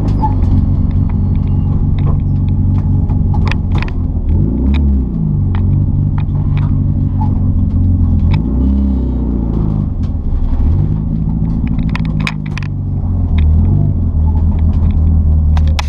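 Mitsubishi Lancer Evo 6 TME race car's turbocharged four-cylinder engine running loudly under way, its pitch swinging down and back up several times as revs change. Many short sharp clicks and knocks sound over it.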